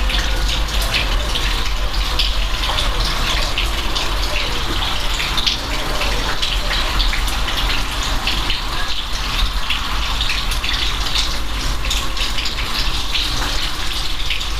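Steady rain falling, a dense wash of drops with many sharp individual splashes, over a constant low rumble.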